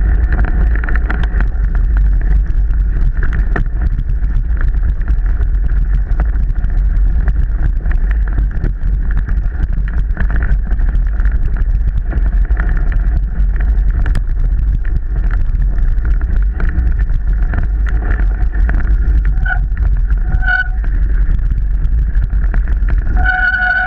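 Mountain bike ridden over a wet, rough trail, heard from a camera mounted on the bike or rider: a constant loud rattle and rumble with wind on the microphone. Near the end the disc brakes squeal in a few short pulses.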